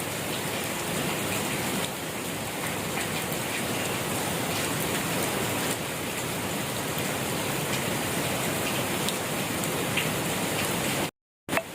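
Steady gentle rain falling, a constant hiss with scattered small drop ticks. Near the end it cuts out to silence for a moment and comes back with a click.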